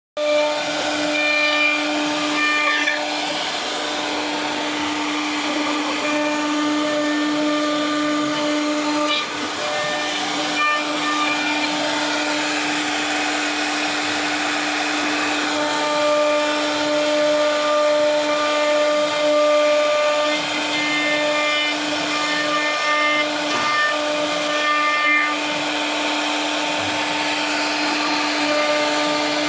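CNC router running on wood: a steady spindle whine over cutting noise, with higher motor tones that switch on and off every few seconds as the machine moves.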